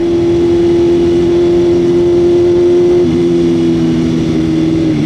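Motorcycle engine running at a steady speed, its pitch stepping down slightly about three seconds in and again near the end.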